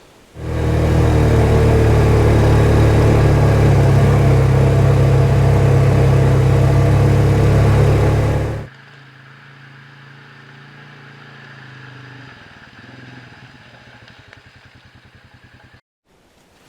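A small vehicle's engine running steadily and loudly. About eight seconds in it cuts off suddenly, and a much fainter engine hum follows and fades away.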